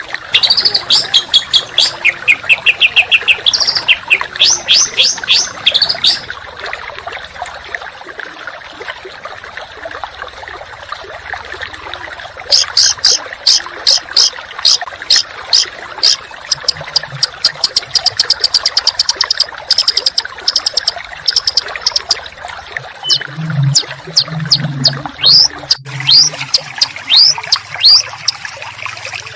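Small songbird singing fast, dense runs of sharp, repeated high 'shot' notes in three long bursts, the kind of harsh song used as a master recording to train competition songbirds. A steady trickle of water runs underneath.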